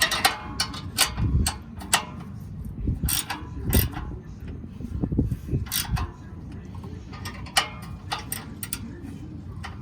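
Hand tools working on metal exhaust hardware: a run of irregular sharp clicks and knocks.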